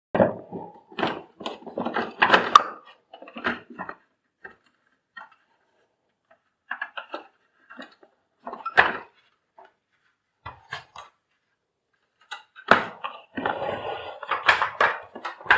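Hands working on the open plastic body and cord reel of a vacuum cleaner: irregular clicks, knocks and clatter of plastic parts and tools. There is a busy spell at the start, a few separate knocks in the middle, and a denser clattering stretch near the end.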